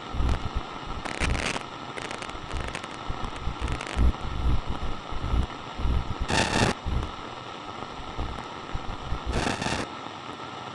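Walkie-talkie radio static: a steady hiss broken by about five short bursts of crackling noise, with a fluttering low rumble underneath.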